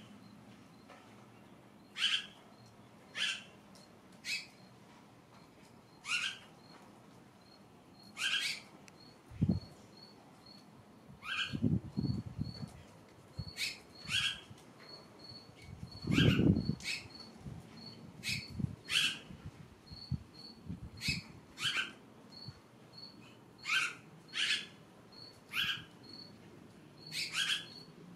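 A songbird giving short, sharp chirps, one every second or two, with a faint, fast, high ticking behind. A few low rumbles come through; the loudest is about two-thirds of the way in.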